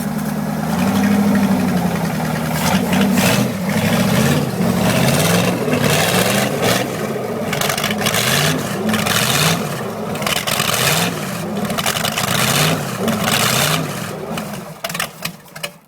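Ford 427 FE V8 engine running, its speed rising and falling over and over as the throttle is worked, then dying away near the end.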